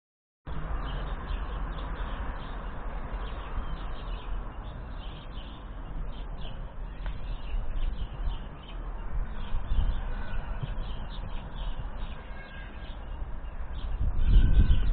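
Many small birds chirping continuously in short, dense calls over a steady low rumble. The low noise swells sharply in the last second.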